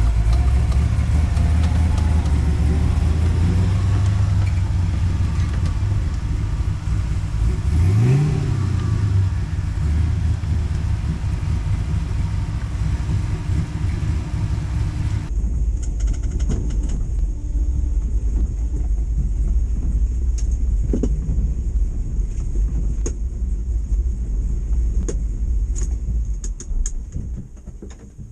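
6.0 LS V8 in a square-body Chevy truck running as it drives at low speed, revving up and back down once about eight seconds in. About halfway through, the higher hiss drops away suddenly, leaving the low engine rumble.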